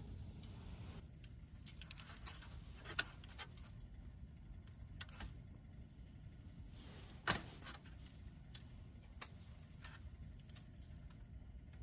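Scattered light clicks and clinks of small hard objects being handled, irregular and a few seconds apart, with the sharpest about seven seconds in, over a low steady rumble.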